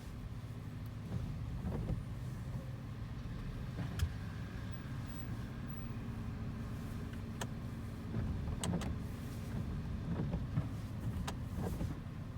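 Freightliner M2106 rear-loader garbage truck with a McNeilus body, its diesel engine running with a steady low drone, broken by a few sharp knocks.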